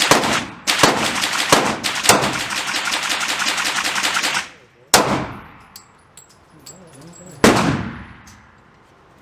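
Pistol gunshots: several quick shots over the first four seconds or so, then two single shots about two and a half seconds apart, each followed by echo.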